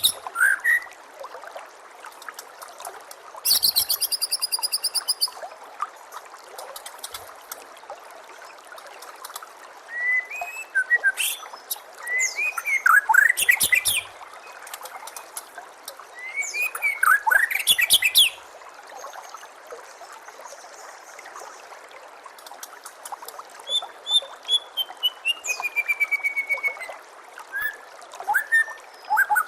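White-rumped shama (murai batu) singing in separate bursts of varied phrases: a rapid high trill, whistled slurs, and a long falling whistle near the end. Steady trickling water runs underneath.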